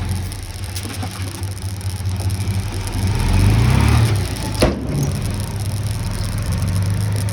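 Diesel engine of heavy earthmoving equipment running, with a low steady hum. It revs up briefly about three seconds in and settles back. A single sharp knock comes shortly after.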